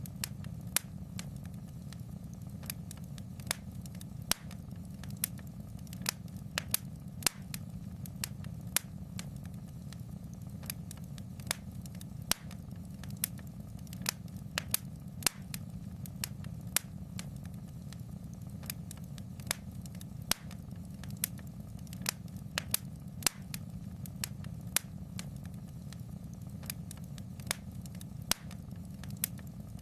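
Wood fire crackling in a fireplace: sharp, irregular pops and snaps, one to three a second, over a steady low rumble of the flames.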